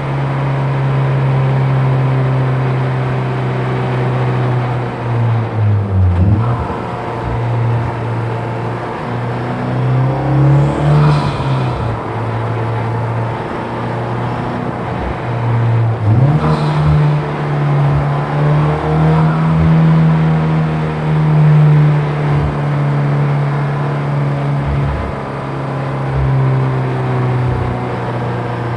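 Honda Civic Type R FK8's turbocharged 2.0-litre four-cylinder engine running hard on track. Its note holds for long stretches, then dips and climbs again around six, eleven and sixteen seconds in.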